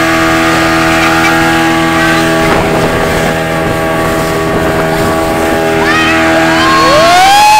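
Motorboat engine running at a steady pitch. Near the end, people start yelling in long rising cries.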